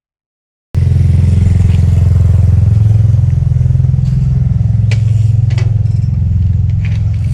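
Loud, steady low rumble of wind buffeting a camera microphone on a moving bicycle, cutting in suddenly about a second in, with a few sharp clicks and rattles about five seconds in.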